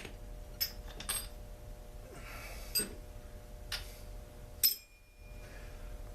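Sharp metal clicks and clinks, about five spread over a few seconds, from tools and small chainsaw parts being handled and set down during disassembly.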